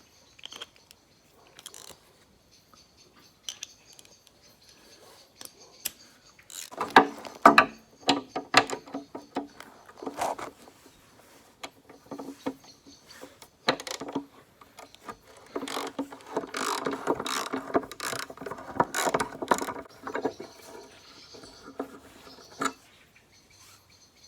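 Ratchet wrench with an extension bar clicking in bursts of rapid ratcheting as the T50 Torx bolts holding a BMW E36's rear bumper impact absorber are undone, with scattered sharp metal clinks between bursts.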